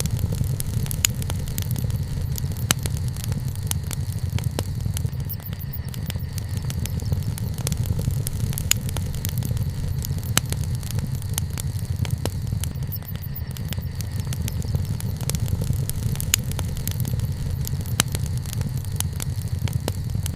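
Wood campfire burning, with a steady low rumble and sharp crackles and pops at irregular moments, a few every second.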